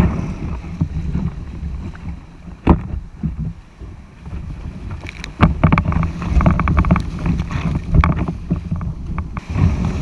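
Wind rumbling on the microphone, broken by knocks and clatter: a sharp knock about two and a half seconds in, then a run of knocks from about halfway through.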